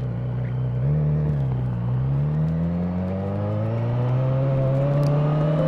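Honda CB1000R's inline-four engine and exhaust under way: the revs rise and dip briefly about a second in, then climb steadily as the bike accelerates.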